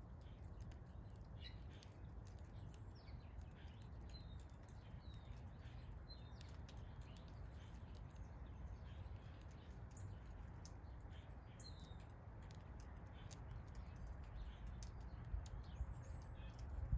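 Small backyard birds giving short, scattered chirps over a steady low rumble, with many faint clicks.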